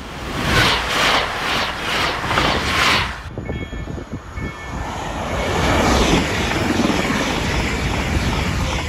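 Electric passenger train rushing past at speed close by, with a clatter that comes in regular surges about twice a second, cut off sharply after about three seconds. A second electric multiple unit then approaches and rushes past, throwing up snow, its noise building to a steady loud rush.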